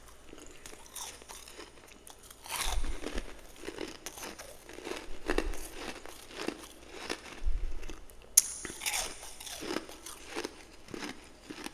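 A person biting and chewing a mouthful of freezer frost close to the microphone. A loud crunch comes about two and a half seconds in, followed by a run of smaller chewing crunches; near the end there is a sharp click and then another bite.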